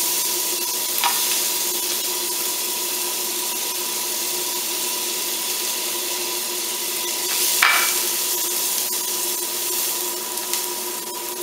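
Butter and slivered garlic sizzling in a hot frying pan, a steady frying hiss. A short knock about a second in and a louder one a little past seven seconds in.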